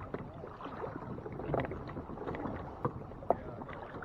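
On-the-water sounds from a fishing kayak: a steady wash of water noise with a few sharp knocks, three of them standing out in the second half.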